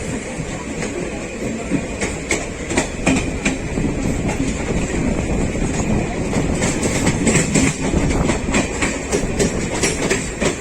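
Haryana Express passenger train running along the track, its wheels clattering over rail joints with irregular sharp clicks over a steady rumble.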